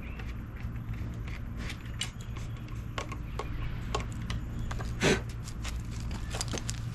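Light metallic clicks and taps from small hardware and hand tools being handled, over a steady low hum, with one louder short scrape about five seconds in.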